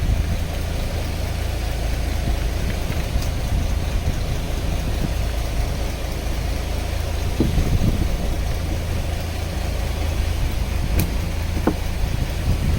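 Fishing boat's engine idling with a steady low rumble, with a few light knocks and clicks on board.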